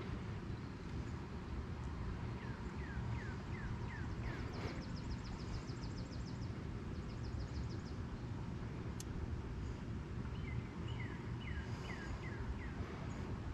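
Small birds singing outdoors: short falling chirps early and late, and a rapid high trill in between, over a steady low background rumble. A single sharp click comes about two-thirds of the way through.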